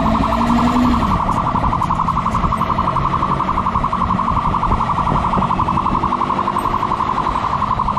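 Police siren sounding a fast, steady-pitched pulsing electronic tone, with a low engine rumble underneath.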